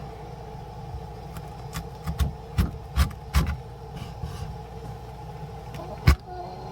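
Knife chopping through a large cabbage on a cutting board: a quick run of sharp chops in the middle and one harder, louder chop near the end, over a steady low hum.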